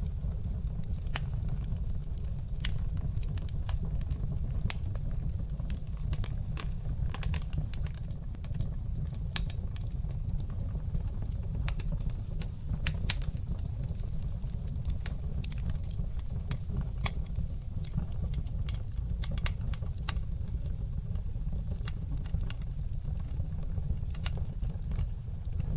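Wood fire burning in a fireplace: a steady low rumble from the flames under many quick, irregular crackles and pops of burning logs.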